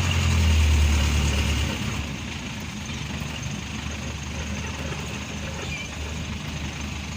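Truck engine running with a steady low drone, louder for the first couple of seconds and then settling to a lower, even level.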